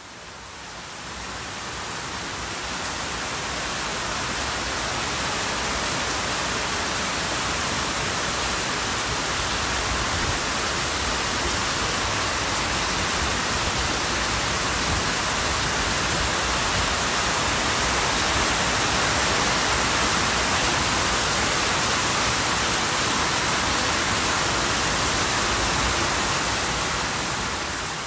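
Heavy rain pouring down in a steady, even rush, with runoff streaming off a verandah roof. It fades in over the first few seconds.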